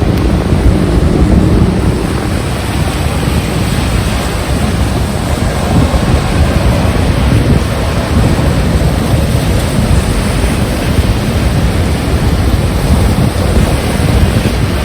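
Heavy rain with strong wind gusting straight onto the microphone: a loud, dense rush of rain over constant low, uneven buffeting from the wind.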